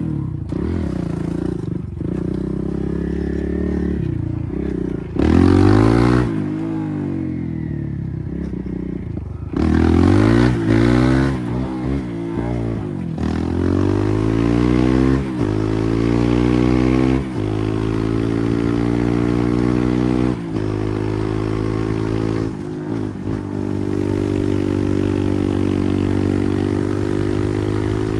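Kawasaki KLX140R F dirt bike's air-cooled single-cylinder four-stroke engine being revved and ridden: sharp loud throttle bursts about five and ten seconds in, several climbs in pitch like acceleration through the gears, then a steadier run with brief dips in the last third.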